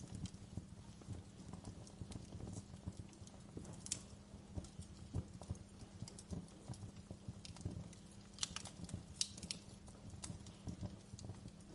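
Wood fire crackling in a fireplace: irregular small pops and snaps over a low steady rumble, with a quick cluster of sharper pops about eight to nine seconds in.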